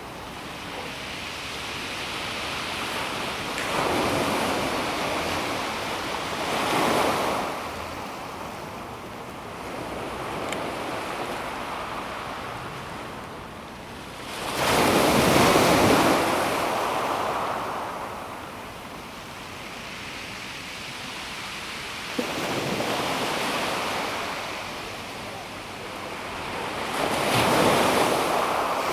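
Calm sea waves washing in and out over a pebble beach, swelling and ebbing in several surges. The loudest surge comes about halfway through.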